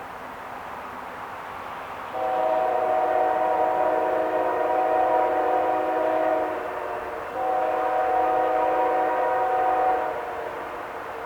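Freight locomotive air horn, on a Norfolk Southern AC44C6M leading a westbound manifest, sounding a chord in two long blasts about four and three seconds long with a short break between. A steady low rumble of the train runs underneath.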